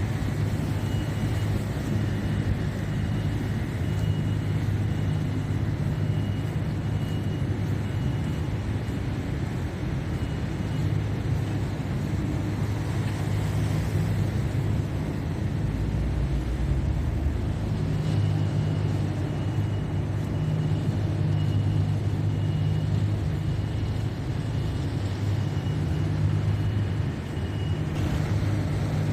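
City street traffic: a steady low hum of vehicle engines with road noise. For long stretches a faint high tone pulses on and off over it.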